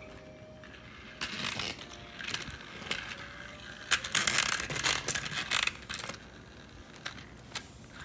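Plastic toy train pieces clicking and rattling in irregular bursts, loudest from about four to five and a half seconds in.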